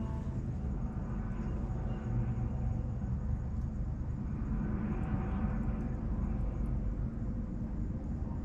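Steady low rumble of city background noise, swelling and fading about five seconds in as something passes, with a few faint crackles from a wood bonfire.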